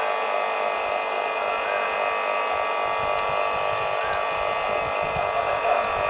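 Slow-moving electric multiple-unit local train approaching: a steady whine of several tones, with a low rumble building from about two and a half seconds in. A few faint chirps sound over it.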